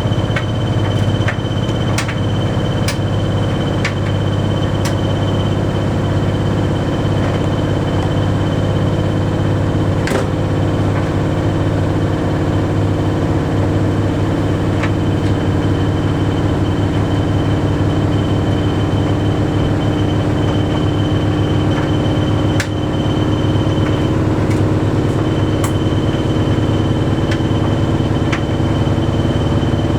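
Bosch Series 6 heat pump tumble dryer running mid-cycle on its Shirts programme: a steady hum with a thin high whine that stops about three quarters of the way through. Occasional sharp clicks come from the load tumbling in the drum.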